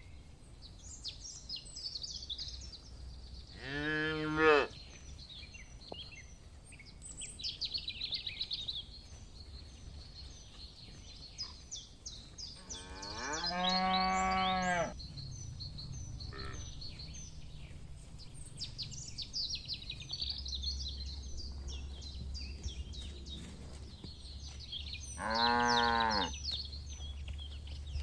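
Cattle mooing three times, each a drawn-out call, the middle one the longest at about two seconds. Small birds chirp throughout.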